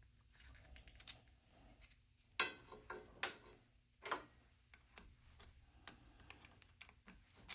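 Scattered clicks and clinks of metal hand tools and parts being handled on a workbench. The loudest is a short ringing clank about two and a half seconds in, with a few lighter knocks around it and faint ticks later.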